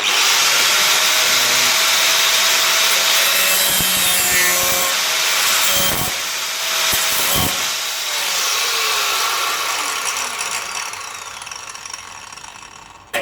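Angle grinder with a worn-down cutting disc cutting sheet steel, a loud steady hissing whine that starts suddenly. About two thirds of the way through its pitch falls and the sound fades as the disc spins down.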